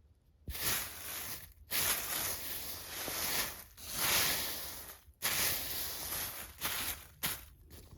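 Vacuum cleaner sucking up crunchy debris: a hissing, crunching rush that starts about half a second in and runs in several stretches with short breaks.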